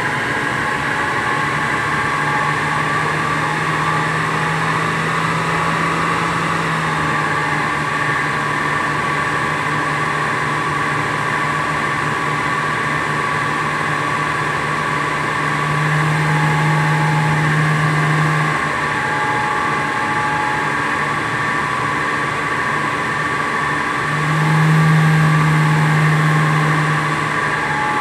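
Rover 2300's straight-six engine running under load on a rolling road, held at a steady speed with a constant whine above it. It gets louder for a couple of seconds about halfway through and again near the end.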